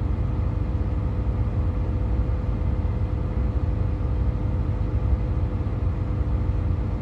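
Steady low rumble of a running truck heard from inside the cab, with a faint even hum over it.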